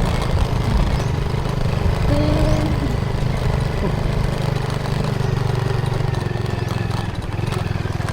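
Motorcycle engine running steadily under load with a low drone, heard from the rider's seat while riding. A short, higher pitched call cuts in briefly about two seconds in.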